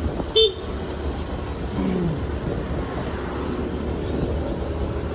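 Steady road rumble of wind and engine from a moving motorbike, with a short horn toot about half a second in.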